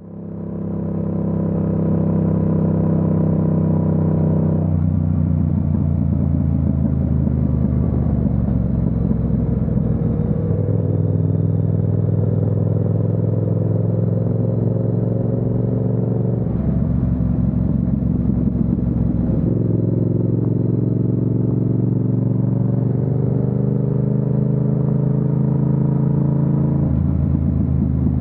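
Yamaha MT-07's parallel-twin engine under way, its pitch climbing and then stepping back several times as it pulls through the gears.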